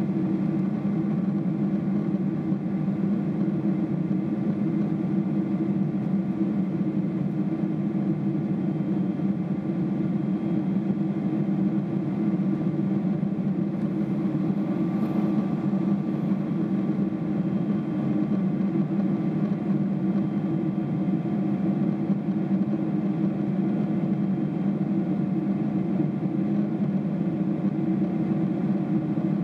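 Steady cabin drone inside a Boeing 777-300ER in flight: the hum of its GE90-115B turbofans and the rush of air past the fuselage, deep and even, with a few faint steady whining tones above it.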